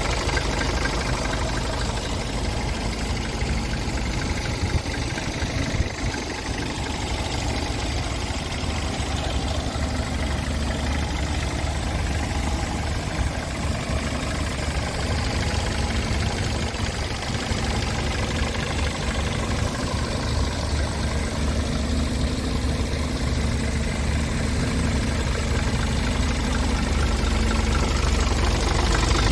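Scania R410 tractor unit's 13-litre straight-six diesel idling steadily, growing a little louder near the end.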